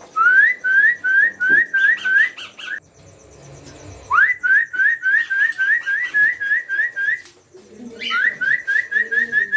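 Parrot chicks making begging calls at feeding time: rapid runs of short rising chirps, about four a second, in three bouts separated by brief pauses.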